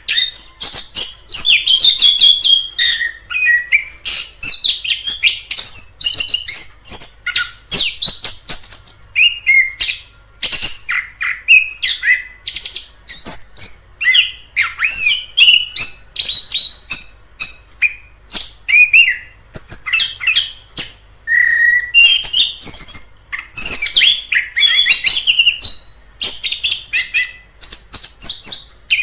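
Orange-headed thrush singing a long, varied song of rapid chirps, trills and whistled phrases, with only short pauses.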